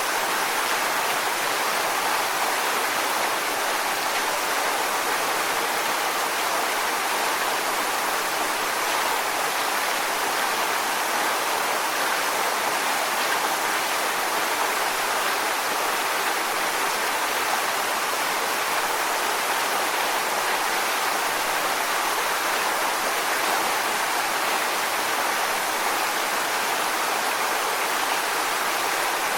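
Waterfall: water falling and splashing onto rocks in a steady, even rush.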